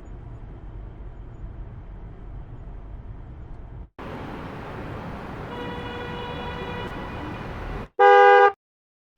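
Separate car sound clips in a row. First a low rumble of traffic noise, then similar noise with a car horn held steadily under it from about halfway in. Near the end comes one loud, short car horn honk.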